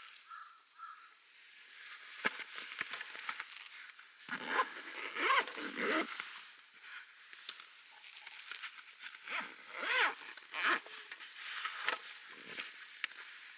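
Irregular rustling and scraping handling noises with a few sharp clicks, loudest about four to six seconds in and again around ten seconds.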